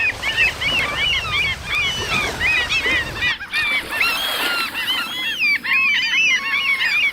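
A flock of gulls calling, many short arched cries overlapping continuously, with a brief break about three and a half seconds in.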